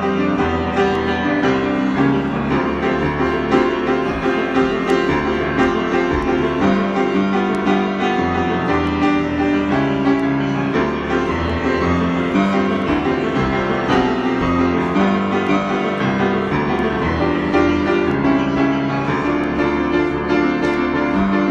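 Piano improvisation: a continuous flow of notes over held low chords.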